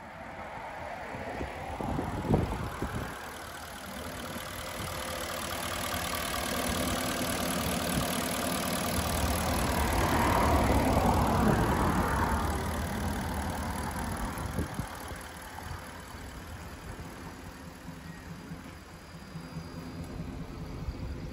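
2006 Porsche Cayenne S's 4.5-litre V8 idling steadily, louder around the middle when heard close to the open engine bay, then quieter. A brief thump about two seconds in.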